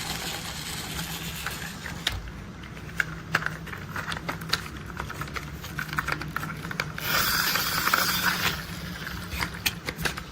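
Plastic toy construction vehicles being handled: a run of sharp clicks and taps, with a rolling, scraping stretch about seven seconds in.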